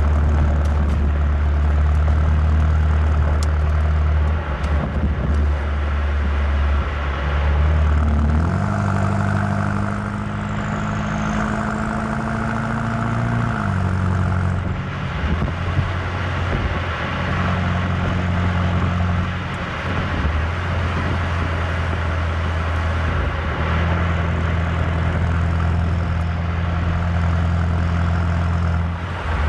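BMW M8 Competition's twin-turbo V8 running steadily while driving. About eight seconds in the revs jump up, hold for about five seconds, then fall back to a steady lower pitch.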